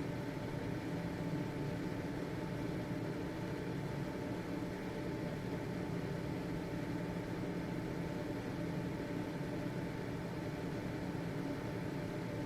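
Household ventilation fan running steadily: an even whooshing hiss of moving air with a low motor hum and a few faint steady tones.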